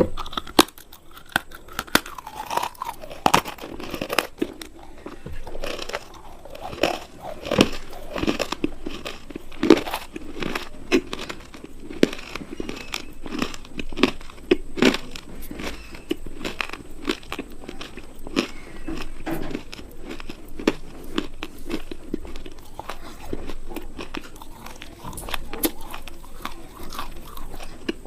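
Close-miked biting and chewing of a hard, crunchy food: sharp crunching snaps at irregular intervals, with chewing between them.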